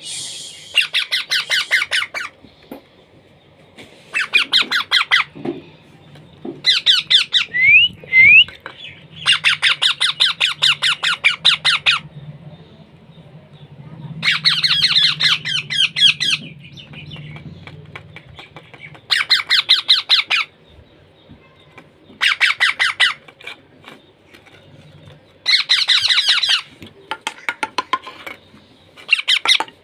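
Parrot squawking in about ten bursts of rapid, harsh, repeated calls, each burst lasting one to three seconds with short pauses between. Two brief rising whistles come about eight seconds in.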